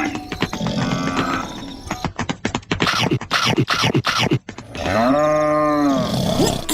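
A rapid run of sharp clicks and knocks, then a cow mooing: one long call that rises and falls in pitch, starting a little after the middle.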